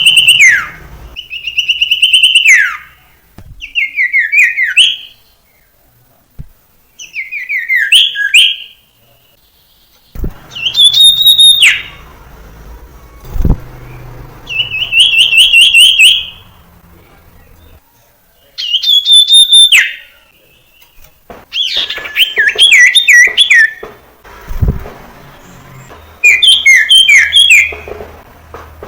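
Common iora singing: about nine loud phrases of a second or two each with short pauses between, each a fast run of repeated whistled notes, some held at one pitch and some falling.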